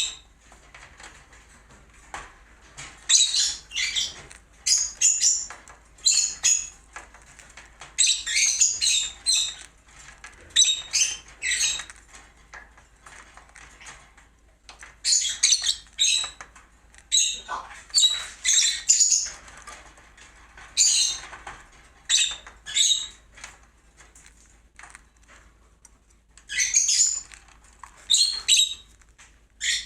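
Cockatiel chirping: short high-pitched calls in clusters every second or two, with brief quiet gaps between them.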